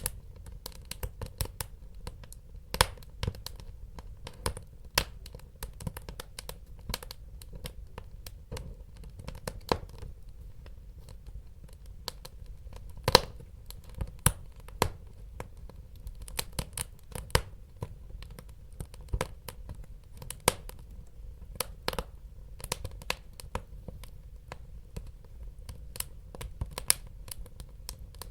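Wood fire burning in a fireplace, crackling with irregular sharp pops over a steady low rumble of flames; a few pops stand out louder.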